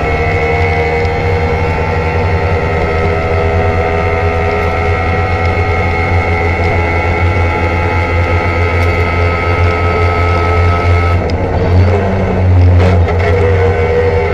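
Trabant 601's two-cylinder two-stroke engine running steadily, its pitch creeping slowly upward. About eleven seconds in the sound changes: the higher tones drop out and a louder low drone comes through for a second or two before the steady running picks up again.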